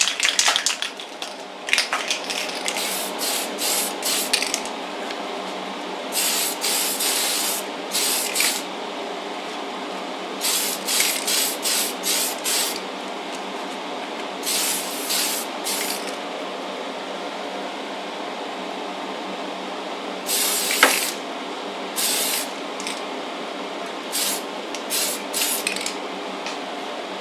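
White primer being sprayed onto a die-cast toy car body in short hissing bursts that come in clusters, a quick dust coat over grey primer. A steady hum runs underneath.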